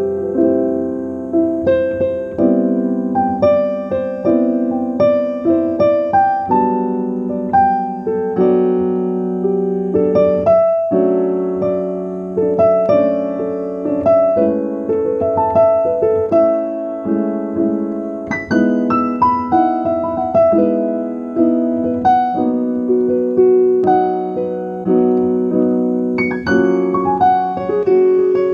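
Solo piano music playing a steady stream of notes, each struck note ringing and fading.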